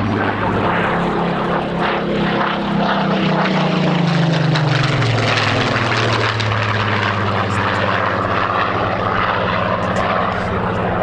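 Piston-engined propeller aircraft flying past, its engine note dropping in pitch as it passes about four to five seconds in, then running on steady.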